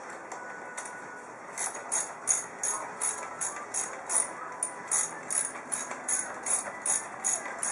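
Ratchet wrench clicking in a steady rhythm, about three clicks a second from about a second and a half in, as it winds in a front brake caliper mounting bolt.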